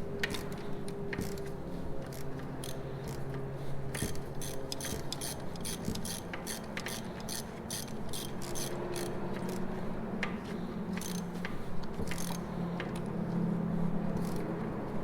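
Hand ratchet wrench clicking in short runs as bolts are turned on a transmission being put back together, the clicking densest a few seconds in. A steady low hum runs underneath.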